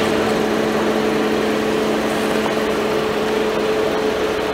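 Car engine running steadily at idle as the car creeps forward, an even hum with a held tone.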